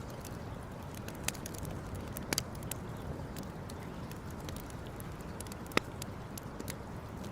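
Wood campfire crackling over a steady low rumble: many small ticks and a few louder sharp pops, the sharpest about six seconds in.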